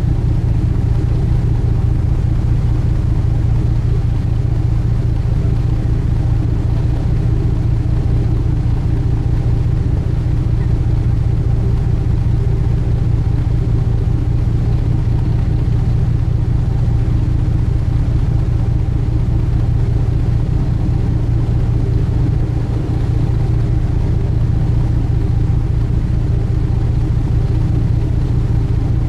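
Sightseeing boat's engine running steadily, a constant low drone with a rumble and no change in pitch.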